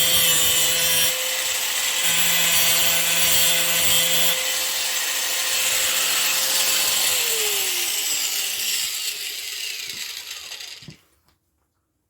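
Drill Master 4.5-inch angle grinder running at speed with a steady high whine, its wheel grinding against the workpiece twice in the first four seconds. About seven seconds in it is switched off, and the whine falls in pitch as the wheel coasts down, stopping near eleven seconds.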